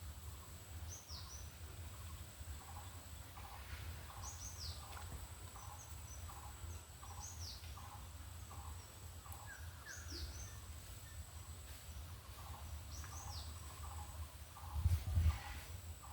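Birds calling: high, quick down-slurred chirps repeated every couple of seconds over a steady series of short, lower notes, about two to three a second. A low rumble runs underneath, with a louder thump near the end.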